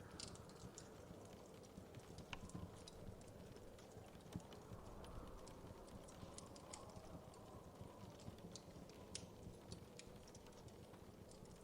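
Wood fire crackling in a fireplace, faint: irregular small pops and snaps over a low, steady rumble.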